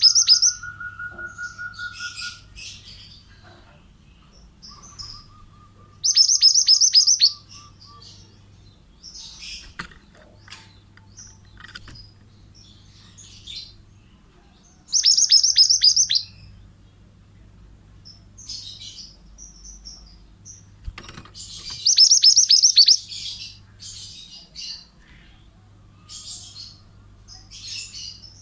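Male pied bushchat (mantenan) singing: loud, bright phrases of rapid high notes, each about a second long, repeat every seven to nine seconds, with softer chirps between. A lower, steady trilling tone comes twice in the first eight seconds.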